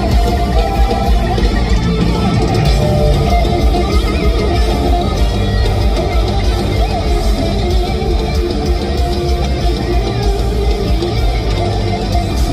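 Heavy metal band playing live and loud, an electric guitar playing lead over heavy drums and bass.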